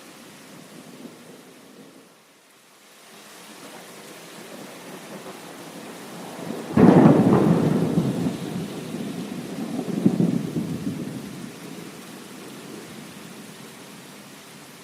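Steady rain with a thunderclap: a low rumble builds, a sudden sharp crack about seven seconds in, then rolling thunder that swells again a few seconds later and slowly fades back into the rain.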